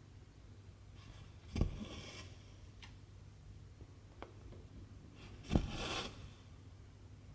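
Silk embroidery thread drawn through 11-count cross-stitch fabric twice, each stroke a sharp tap followed by a short scraping rasp, over a faint steady low hum.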